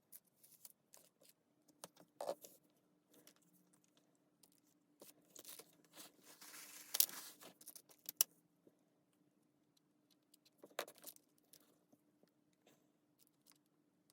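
Small hard parts being handled: scattered clicks and rattles, with a stretch of scraping and rustling in the middle, the sharpest clicks about seven and eight seconds in.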